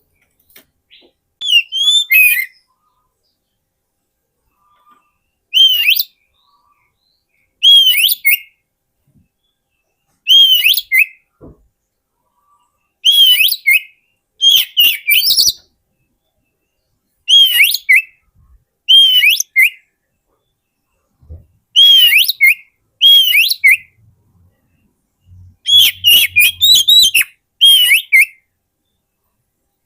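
Oriental magpie-robin singing: short whistled phrases of bending notes, repeated every two seconds or so with silent gaps between.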